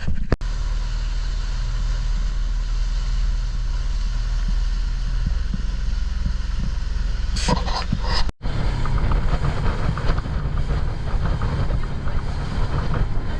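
An engine running steadily under heavy wind noise on the microphone, in clips joined by sharp cuts near the start and about 8 seconds in.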